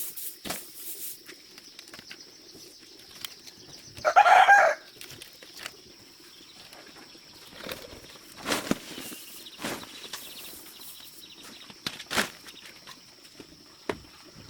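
Chickens: one loud, short squawk about four seconds in, then scattered flaps and sharp knocks, over a faint steady high-pitched tone.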